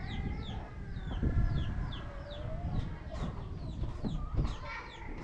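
Chickens clucking, with a quick run of short, high, falling peeps and a few dull knocks underneath.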